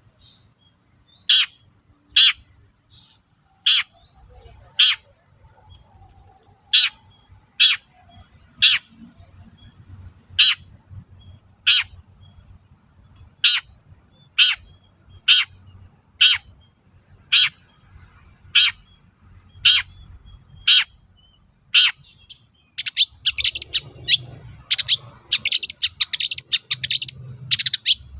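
Long-tailed shrike calling: a sharp, loud note about once a second, repeated some eighteen times. Near the end it breaks into a fast, dense chattering song.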